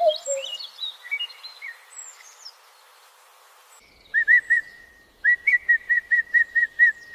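Bird song: varied high chirps and twittering at first, then after a short pause a run of short, identical whistled notes repeated about three times a second.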